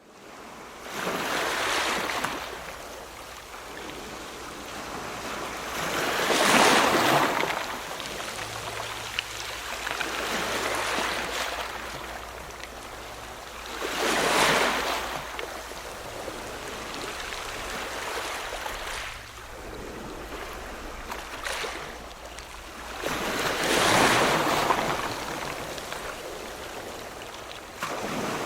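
Ocean waves breaking on a shore, a continuous wash of surf with four louder surges several seconds apart, each swelling and falling away.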